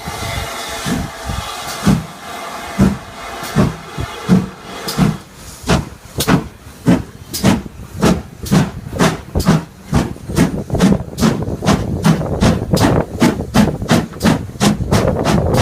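Steam locomotive pulling away: exhaust chuffs with a steam hiss, the beats quickening steadily from a bit over one a second to about three a second as the engine gathers speed.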